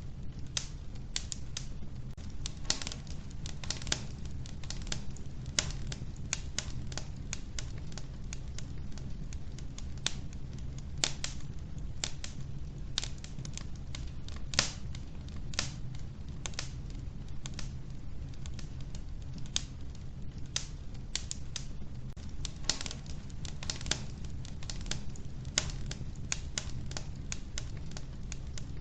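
Logs burning in a wood-burning stove, crackling: irregular sharp pops and snaps, several a second, over a steady low rumble of the flames.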